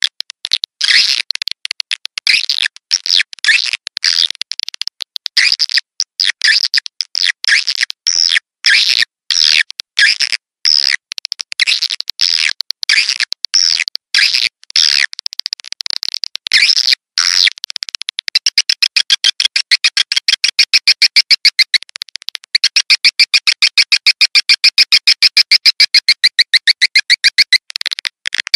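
Recorded swiftlet calls of the kind played as a swiftlet-house lure: quick, high twittering chirps, then from about two-thirds of the way in a fast, even, rattling trill.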